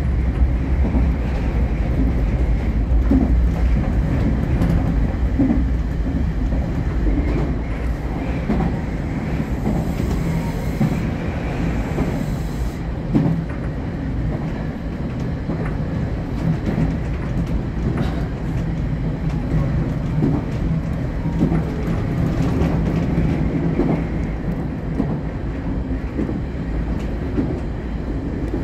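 Electric commuter train running at speed, heard from inside the front car: a steady rumble of wheels on rail, with scattered clicks over rail joints. The rumble is heaviest in the first few seconds while the train crosses a steel truss bridge, and a low steady hum runs through the middle.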